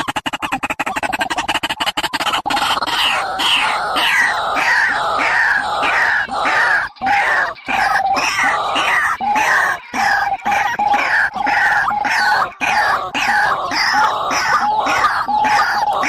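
Bird-call lure recording: a rapid buzzing run of pulses for the first couple of seconds, then short falling calls repeated about twice a second.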